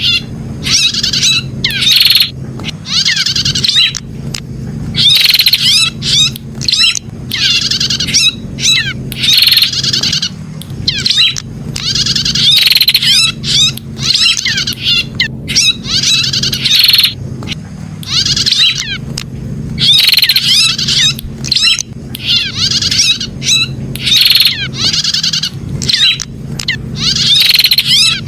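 Prenjak (prinia) calling over and over in quick bursts of high, rapid chirping notes, one burst every second or two, over a steady low hum.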